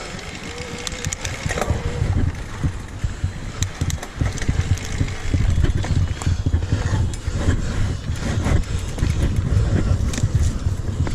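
Mountain bike riding down a rough dirt trail: a steady rumble of wind and ground shaking the microphone, under a stream of quick clicks and rattles from the bike's frame and parts.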